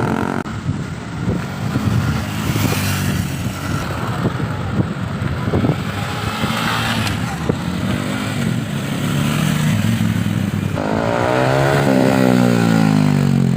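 Motorcycle engine running at speed, its pitch swinging up and down over the last few seconds.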